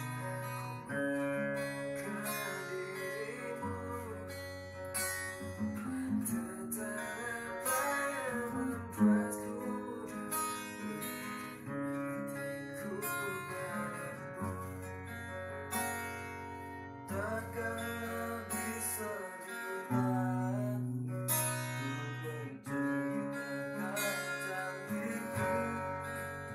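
Acoustic guitar playing a strummed chord accompaniment with changing chords.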